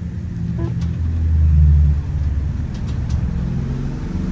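Micro Bird Girardin G5 bus heard from inside the cabin, its engine and drivetrain running with a low hum that swells louder for about a second, then settles back, with a few faint clicks and rattles.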